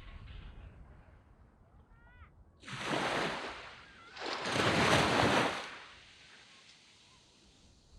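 Waves breaking on a sandy beach: two surges of surf wash in, about three seconds in and again about a second later, the second louder, with a low steady rumble of sea between and after them.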